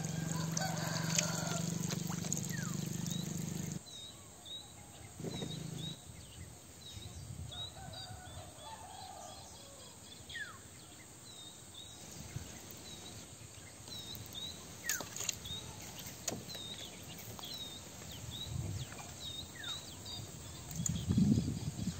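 Small birds chirping, short calls repeated throughout with a few falling whistled notes. A low steady hum runs for about the first four seconds and then stops abruptly, and a few low thumps come near the end.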